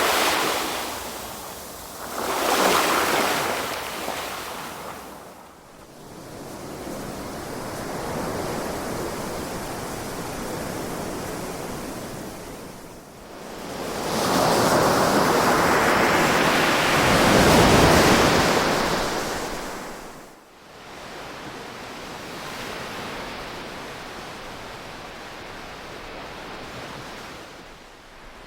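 Ocean waves breaking and washing ashore in swells. There are two short surges at the start, then a longer, louder wave that builds and crests about two-thirds of the way through, followed by a lower, steady wash.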